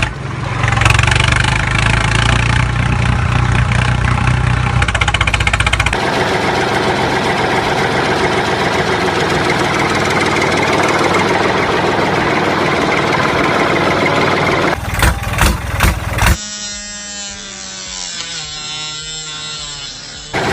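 A motor running steadily, changing its sound about a quarter of the way in; a brief burst of knocks comes later, then a thinner run whose pitch slowly falls near the end.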